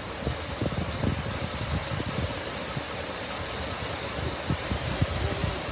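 Steady rushing of water spraying from a sheared-off fire hydrant, with uneven low thumps underneath.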